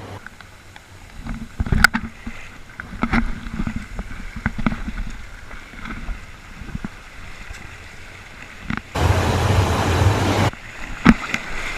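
Pool water splashing and sloshing in scattered bursts. About nine seconds in comes a louder rush of noise lasting about a second and a half, which stops abruptly.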